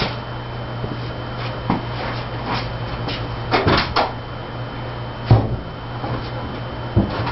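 A few scattered knocks and clunks over a steady low hum, with no clear engine note.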